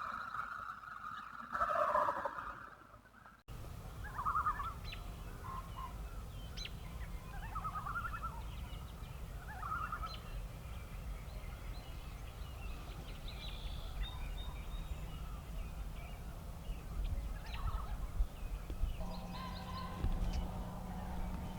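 A wild turkey gobbling at the start, then, after an abrupt cut, open-field ambience: low wind rumble with scattered short bird calls and chirps.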